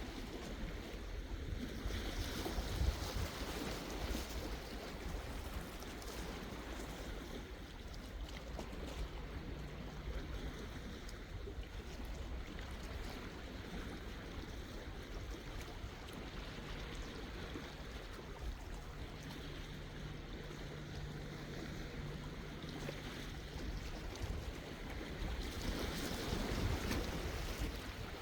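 Sea waves washing in steadily, with wind, swelling louder about two seconds in and again near the end. A faint low steady hum runs through the middle.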